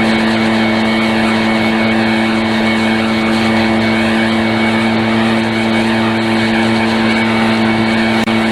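Small gasoline engine of lawn equipment running steadily at a constant high speed, its pitch holding level throughout.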